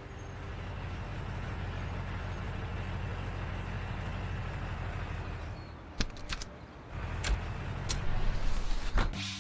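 Vehicle engine sound effect running steadily, as of a cartoon vehicle driving along. Near the end come several sharp clicks.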